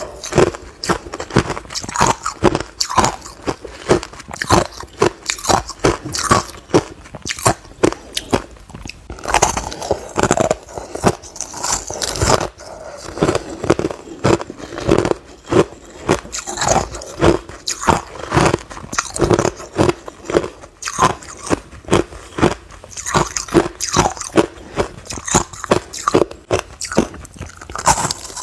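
Close-miked ice eating: a person biting and chewing refrozen crushed ice, with hard crunches coming several times a second in an irregular run.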